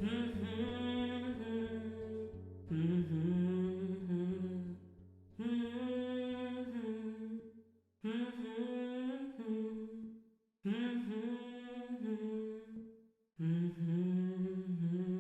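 Wordless hummed vocal harmony in several layered voices, about six held phrases with short gaps between them, closing out the song. A low sustained bass note runs under the first half and drops out about halfway through.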